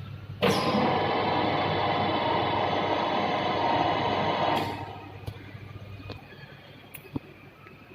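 Vertical turning lathe running with a steady hum and whine, starting abruptly about half a second in and stopping just before five seconds; a few sharp clicks follow.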